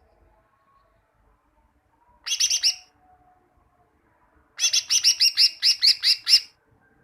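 Green leafbird (cucak ijo) singing. A short run of about five rapid, sharp repeated notes comes first. About two seconds later a longer run of about a dozen follows, at roughly six notes a second.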